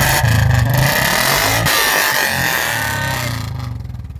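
Royal Enfield Bullet's single-cylinder engine revved loudly through its exhaust, easing back toward idle near the end.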